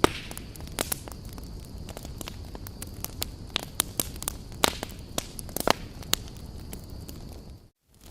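Wood fire in a fireplace, crackling with frequent sharp, irregular pops over a low, steady rush of flame. The sound cuts out briefly near the end.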